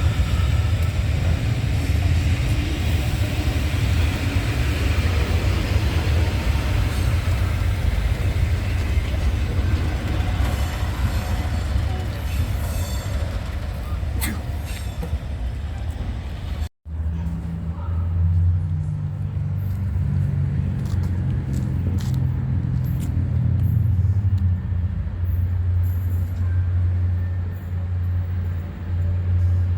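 Rail traffic: the rumble of a train moving through the station. After a sudden cut, a train's steady low drone.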